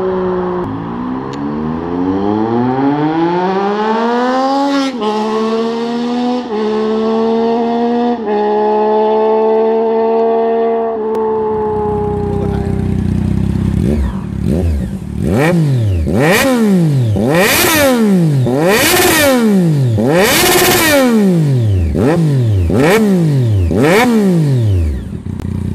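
Sport-bike engine and exhaust pulling through the gears: the pitch climbs and drops back at each upshift. Then it is revved hard about eight times in quick blips, each rising and falling, with a harsh crackle at the top of several.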